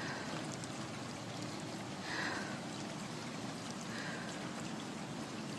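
Steady rush of floodwater running through flooded streets, with a few brief high-pitched sounds about two and four seconds in.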